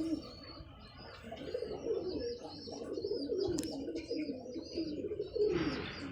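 Several domestic pigeons cooing, their low wavering coos overlapping without pause, with faint high chirping from small birds above them.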